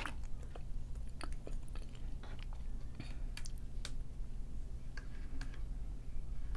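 Quiet close-miked chewing with the mouth closed: a scatter of faint, short wet clicks, over a steady low hum.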